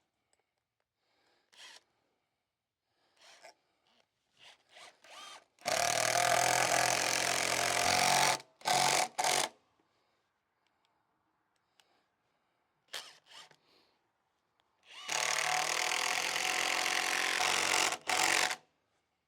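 Electric drill boring into hard oak in two bursts of about three seconds each, the motor labouring under load. Small knocks and clicks come between the bursts.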